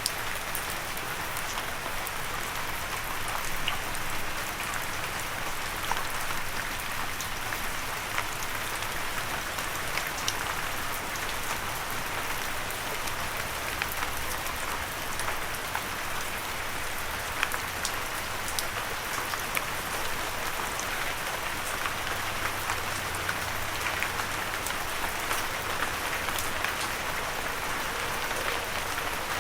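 Steady gentle rain falling on a surface, a continuous patter with many distinct drops ticking through it, no thunder.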